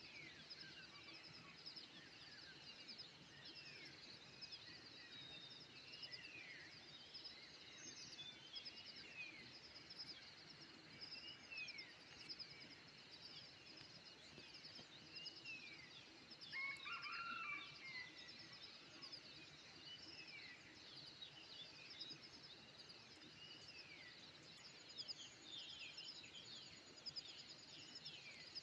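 Faint chorus of many small birds chirping and calling: rapid high chirps throughout, short falling whistled calls, and one louder, lower call about seventeen seconds in.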